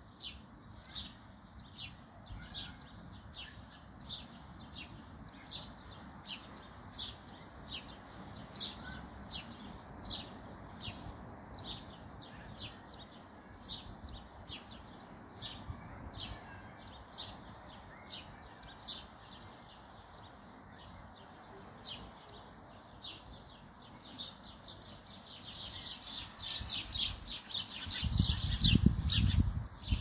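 A small songbird chirping over and over, short high chirps about twice a second, coming faster and closer together near the end. A loud low rumble cuts in over the last two seconds.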